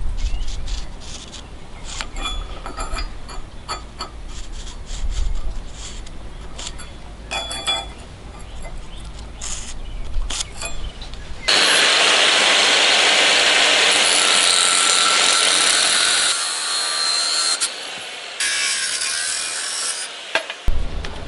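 Metalworking tool sounds: scraping and clicking over a low rumble, then, after a sudden change about halfway in, a loud steady grinding hiss from a power tool that shifts in tone before stopping near the end.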